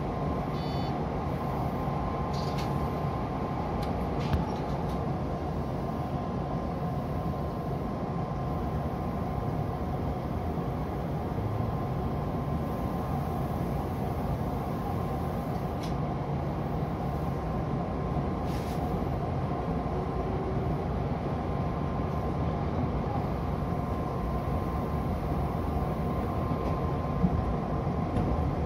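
Odakyu 2000 series electric commuter train running, heard from inside the driver's cab: a steady rumble of wheels on rail with a faint steady tone above it.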